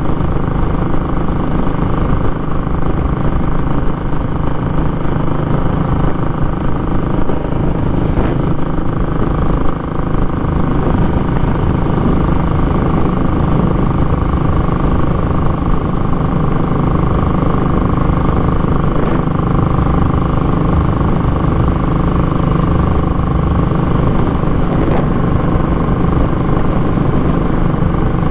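Royal Enfield Classic 500's single-cylinder engine running steadily under way, its exhaust note loud and raw through a short muffler. The note barely changes and dips briefly about ten seconds in.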